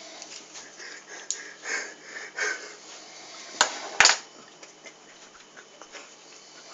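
A person sniffling and breathing in short breathy bursts, then two sharp knocks about half a second apart, midway through.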